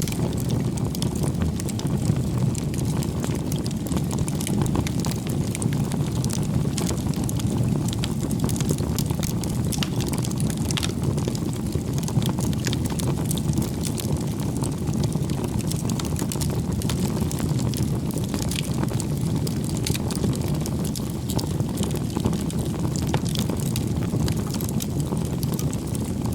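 Firewood burning in a bonfire: a steady low rush of the flames with many small crackles and pops scattered through it.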